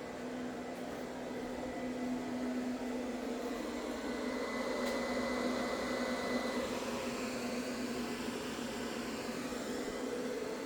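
A steady mechanical hum: a constant low drone with a thin high whine over a hiss, a little louder after the first couple of seconds.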